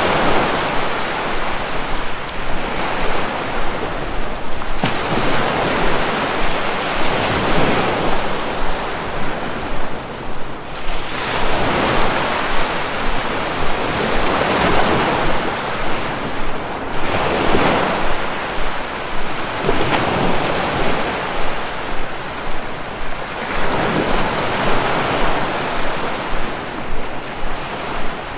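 Sea waves breaking and washing ashore in slow surges, one about every five to six seconds, over a steady rush of surf.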